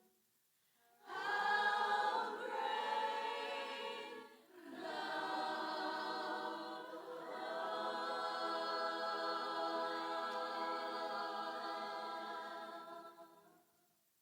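A group of voices singing unaccompanied in worship: a short phrase, then one long held chord that fades out near the end.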